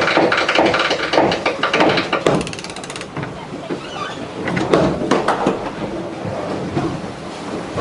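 Deck winch on a racing yacht ratcheting with fast, even clicks as a sheet is ground in. The clicking stops about three seconds in, and scattered knocks and clatter follow.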